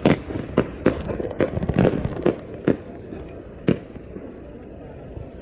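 Aerial firework shell bursting: a run of sharp bangs and pops at uneven spacing, about nine in the first four seconds, then they stop.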